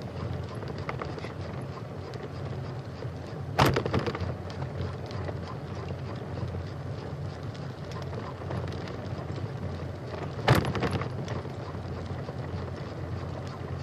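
Bicycle rolling along a trail, with a steady rumble and wind on the microphone. Two sharp knocks break through, about four seconds in and again near ten and a half seconds.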